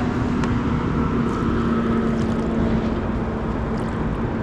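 A steady motor hum with a fainter higher whine, over a rumbling background, as the kayak backs away from its spot.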